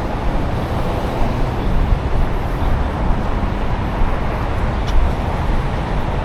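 Steady city street traffic noise, a continuous rumble, with a brief high click a little before the end.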